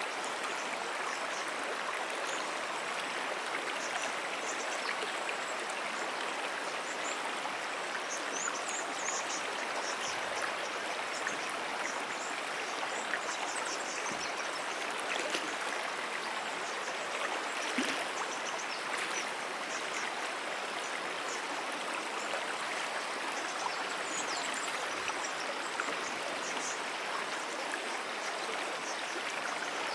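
Moonan Brook, a small perennial creek, flowing with a steady, even rush of running water.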